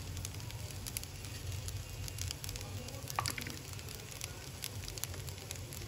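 Shrimp fried rice sizzling in a frying pan, with scattered small pops and crackles over a steady low hum.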